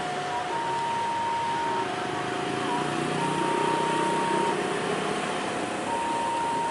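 Railway level-crossing warning alarm sounding a slow two-tone hi-lo pattern, each tone held a little over a second, over a steady vehicle rumble.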